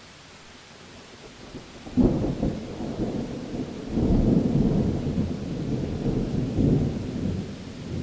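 Thunder rumbling in a thunderstorm: a low rumble breaks in suddenly about two seconds in over a faint steady hiss of rain, swells again about four seconds in, and keeps rolling.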